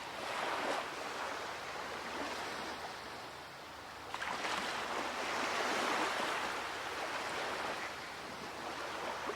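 Waves washing onto a beach, a steady rush that swells slightly about four seconds in.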